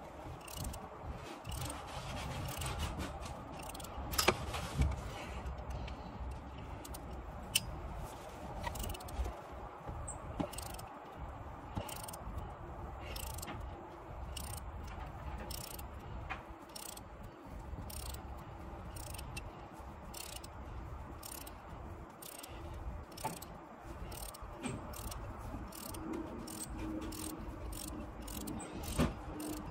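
Hand tools working on engine bolts: a run of short metallic clicks and clinks at uneven spacing, a few louder knocks among them, over a steady low hum.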